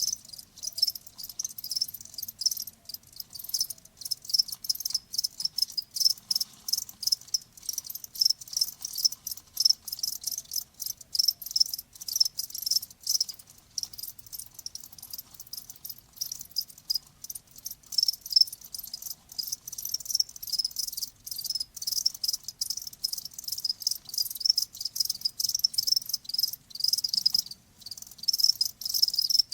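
Crickets chirping: dense, high-pitched chirps that repeat rapidly and unevenly throughout.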